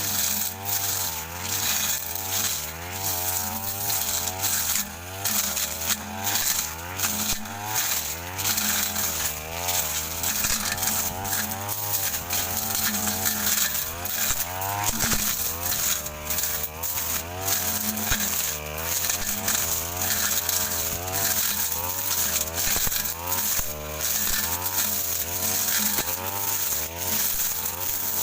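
Petrol brush cutter running at high speed with a metal blade, its engine pitch wavering up and down as the blade bites into dense scrub, with frequent sharp ticks of the blade striking stems.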